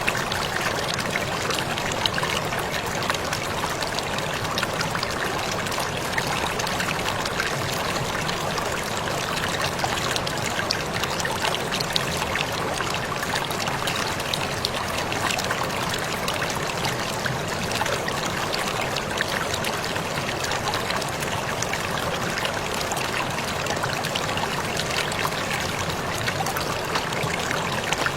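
Waterfall splashing steadily: a constant rush of falling water, dotted with many small splashes and drips.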